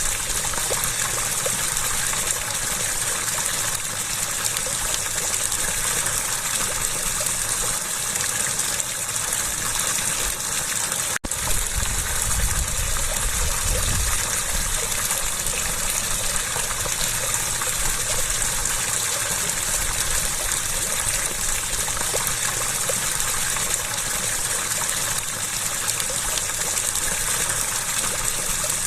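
Steady rushing, gushing water, a continuous hiss of flowing or falling water. It cuts out for an instant about eleven seconds in.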